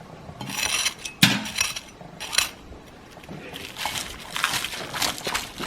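Kitchen clatter: a string of irregular clinks, knocks and scrapes of dishes and utensils, with a sharp knock about a second in.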